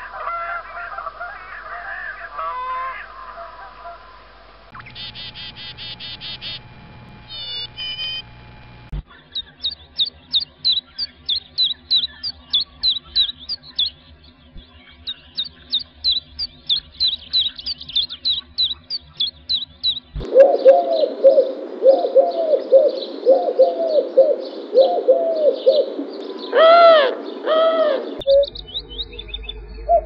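A run of different bird calls cut together from separate recordings. A fast trill gives way to high chirps repeating about twice a second, and from about twenty seconds in lower repeated calls take over, with a few louder sweeping calls near the end.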